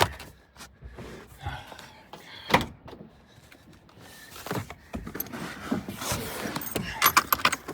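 Hands rummaging in a car's storage compartment: scattered plastic clicks, knocks and rustling, with a sharp knock about two and a half seconds in and a quick run of rattling clicks near the end.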